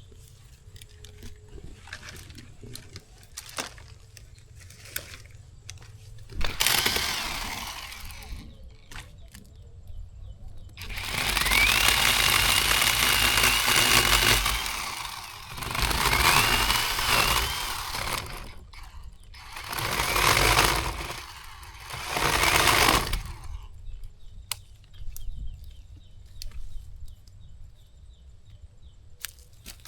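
Zhipu 48V cordless electric chainsaw cutting wood in five bursts of one to three and a half seconds, its motor whining up to speed at the start of some cuts, with quieter pauses between.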